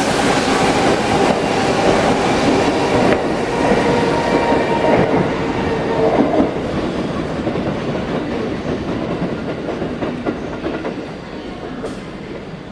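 Tokyo Metro Tozai Line E231 series 800-number commuter train pulling out and moving away, with its wheels clattering over rail joints and points. Steady tones from its VVVF inverter, the sound fans call the 'ghost inverter', are heard in the first half. The train noise fades over the last few seconds as it leaves.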